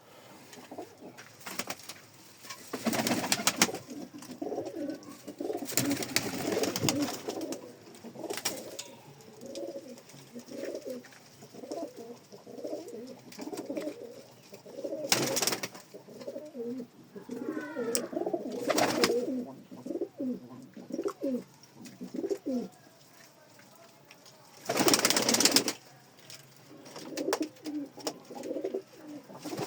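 Domestic pigeons cooing over and over, interrupted by several brief loud rushes of noise; the loudest of these comes about three quarters of the way through.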